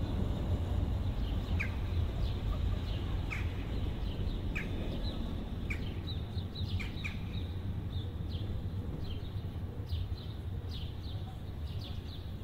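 Small birds chirping: many short, falling chirps scattered through, over a steady low background rumble.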